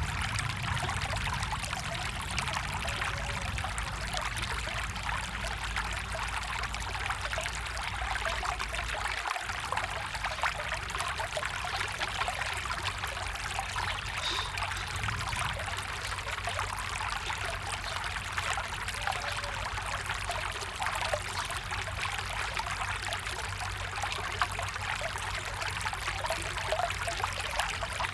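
Water of a small stream running and trickling steadily.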